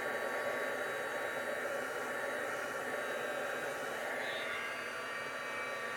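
Embossing heat tool running steadily, a continuous rush of hot air with a faint steady whine from its fan, melting embossing enamel.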